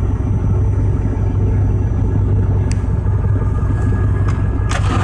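Heavy mining-machine diesel engine running with a steady low drone, with a few light clicks in the second half.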